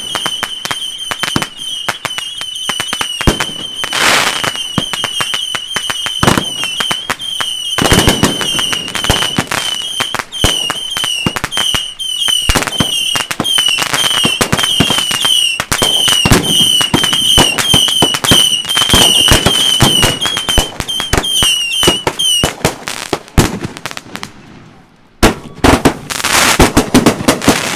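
Consumer fireworks cakes firing: a dense run of rapid bangs and crackle over a high, warbling whistle. The whistle stops about 22 seconds in. After a short lull, loud bangs start again near the end.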